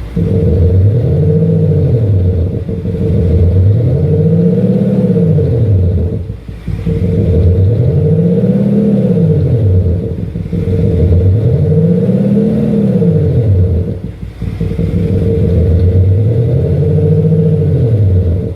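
BMW X5 diesel with an aftermarket active sound booster playing a synthetic exhaust note through its speaker, revved up and let fall five times in a row, each rev swelling and dropping over a few seconds above a steady low hum.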